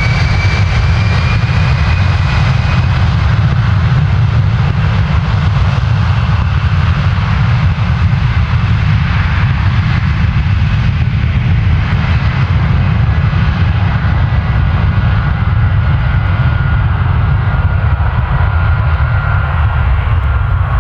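Bombardier Global Express's twin Rolls-Royce BR710 turbofans at takeoff power: a loud, steady jet rumble with a thin whining tone over it. The high end slowly fades and the whine drifts lower as the jet moves away.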